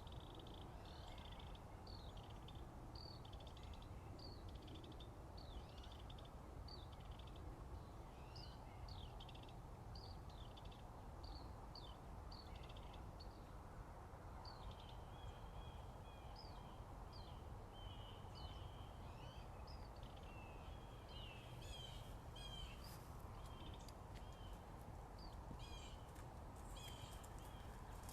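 Songbirds singing faintly: a run of short, high, falling chirps repeated about twice a second. From about halfway through, other birds join with steadier high notes, over a constant low background rumble.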